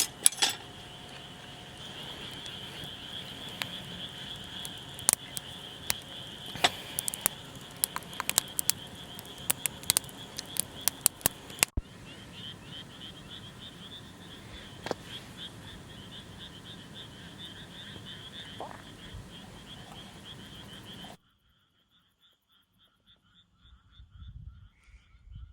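A chorus of frogs calling steadily in fast, high pulsing trills, with many sharp clicks and cracks over it in the first half. About three-quarters through the sound drops away sharply, leaving only faint frog calls.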